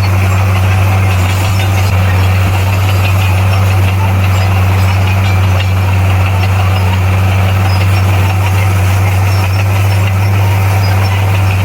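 Heavy earthmoving machine's diesel engine running at a steady speed: a loud, constant low drone with no change in pitch.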